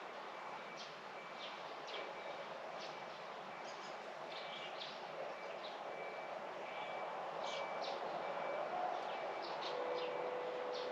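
Small birds chirping in short, scattered calls, with a faint high note repeating evenly about twice a second, over a steady distant hum that grows a little louder; a steady low tone joins near the end.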